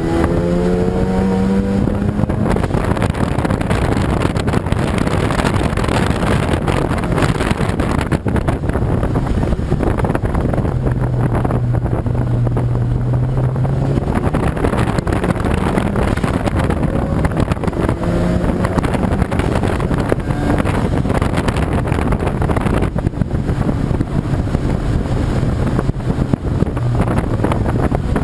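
Race car engine running hard at speed, buried in heavy wind and road noise. The engine note rises for about the first two seconds, and steadier engine tones come through again about halfway in.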